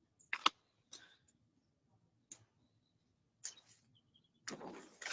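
Faint scattered clicks and brief rustling noises, with a longer rustle near the end, heard through a narrow-band video-call audio link.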